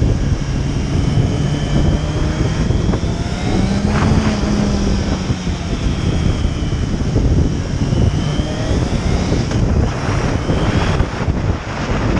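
Motorcycle engine running at road speed under heavy wind noise on the microphone; the engine note rises and falls a little about four seconds in.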